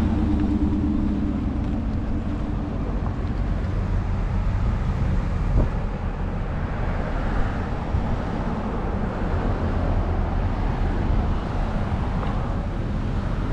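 Steady low rumble of a car heard from inside the cabin, with a faint hum in the first second or two.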